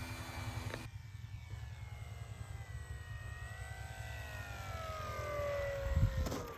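Electric motor and propeller of a radio-controlled Cessna 182 model plane whining in flight, the pitch sagging, rising and then falling again as the throttle changes on the landing approach. A steady low rumble of wind on the microphone runs underneath, with a brief louder low thud about six seconds in.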